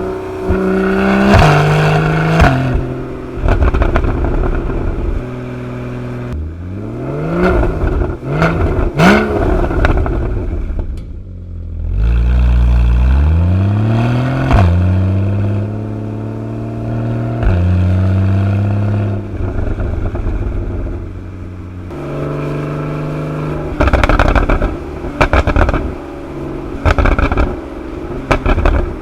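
Porsche 981 Boxster GTS 3.4-litre flat-six with its factory sport exhaust, flaps open. The engine revs climb and fall back several times, and there are bursts of sharp exhaust pops and crackles.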